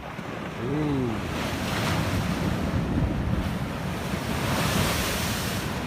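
Ocean surf breaking and washing up the beach, swelling louder twice, with wind buffeting the microphone.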